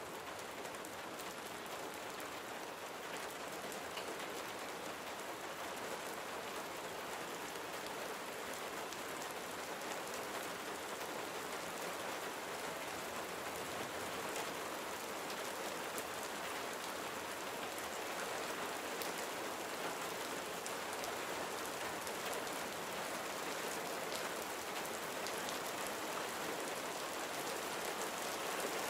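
Steady gentle rain falling, an even hiss with many small drop ticks, slowly growing a little louder.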